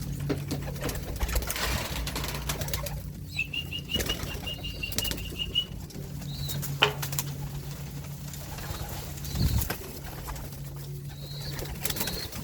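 Young racing pigeons flapping their wings and moving about in the loft, with scattered clicks and knocks. A short run of rapid high chirps comes a few seconds in, and a steady low hum sits underneath.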